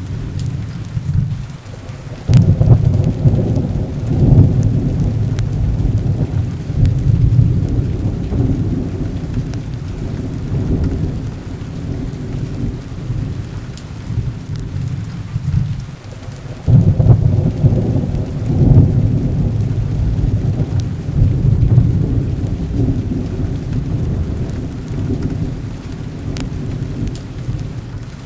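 Heavy rain falling steadily, with two long rolls of thunder: the first starts about two seconds in, the second a little past halfway, each rumbling for around ten seconds.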